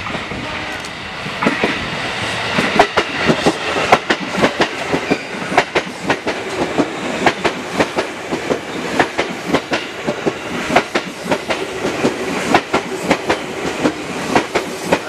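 JR 205 series electric commuter train passing close by, its wheels clattering over the rail joints in a quick, steady rhythm of clicks. The running noise builds over the first couple of seconds as it comes up, and the clatter then carries on car after car.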